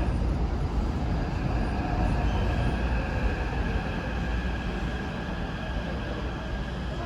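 Taipei Metro train arriving at an underground station platform: a steady rumble of the train running, with a few steady high tones over it. It slowly grows quieter as the train slows.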